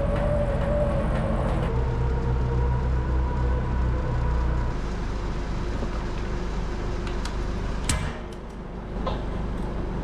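Forklift engine running steadily, its speed dropping slightly about two seconds in and again near five seconds, with one sharp clack near eight seconds.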